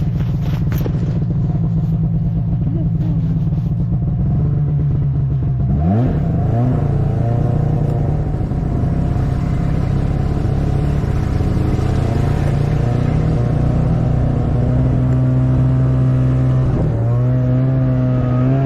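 Snowmobile engine running under way at steady revs. The pitch drops sharply and climbs again about six seconds in, then shifts once more near the end.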